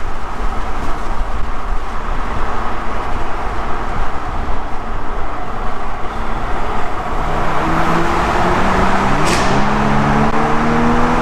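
Mercedes-AMG A45's turbocharged four-cylinder, its exhaust resonator removed, under way: at first mostly steady road and tyre noise. Then, about seven seconds in, the engine note comes up and rises as the car accelerates. It drops with a short click about nine seconds in as it shifts up, then climbs again.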